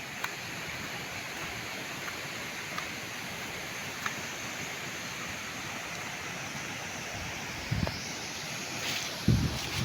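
Steady hiss of falling rain with scattered faint drip ticks. Two low thumps near the end, the second the louder.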